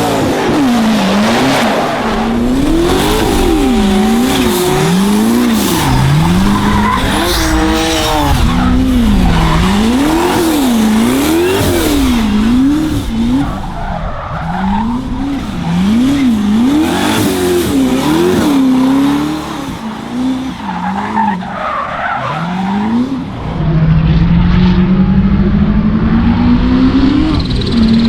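Toyota Supra MK4's 2JZ inline-six revving up and down over and over, about once a second, while drifting, with tyres squealing and skidding. Near the end it settles into one long pull, its pitch climbing steadily.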